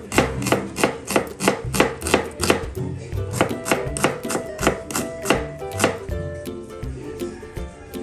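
Knife slicing a red onion on a plastic cutting board, with quick even cuts about three a second that stop about six seconds in.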